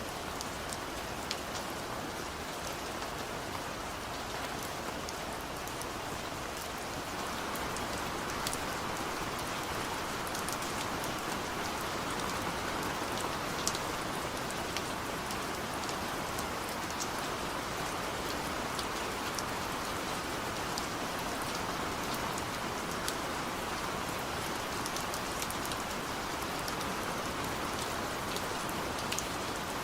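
Steady rain falling, an even hiss with many small drops ticking sharply on a surface; it grows slightly heavier about seven seconds in.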